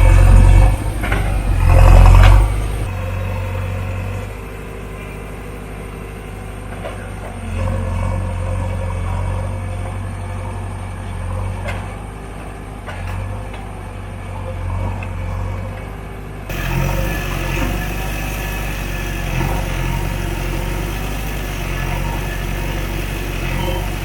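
Diesel engine of a JCB 3DX backhoe loader running under working load, rising and falling with the work. It is loudest in the first two or three seconds.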